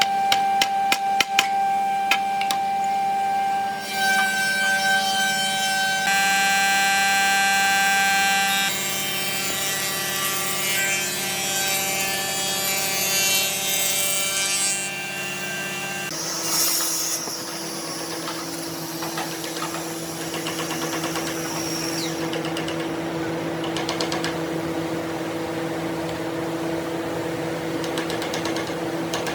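Power tools running, their steady motor whines changing abruptly several times, with a run of sharp clicks near the start.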